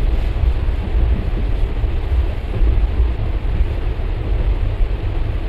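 Passenger train running, heard from inside a coach: a steady, loud rumble of wheels on the track with a pulsing low drone and rushing air.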